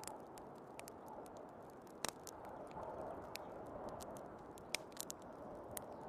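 Wood fire crackling with scattered sharp pops, a louder one about two seconds in, over the steady rush and low whistle of snowstorm wind.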